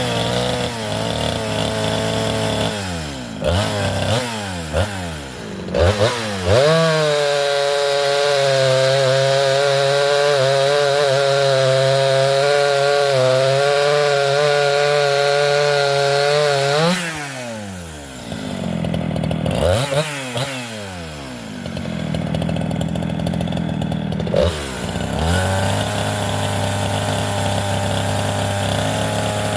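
Craftsman 3.7 two-stroke chainsaw revving up and down, then held at high revs for about ten seconds in a steady stretch, dropping off and revving again, then steady at high revs once more near the end.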